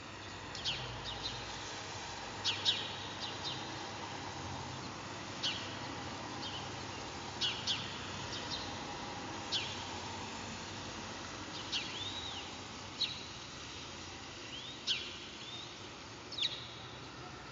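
Wild birds calling: short, sharp high chirps, singly or in pairs, every second or two over a steady background hiss.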